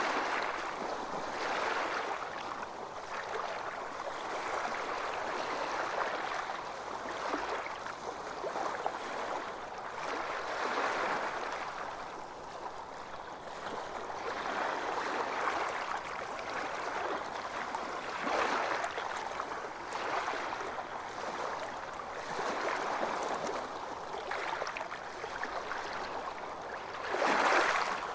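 Small ocean waves breaking and washing on a beach, the surf swelling and easing every few seconds, with one louder wave near the end.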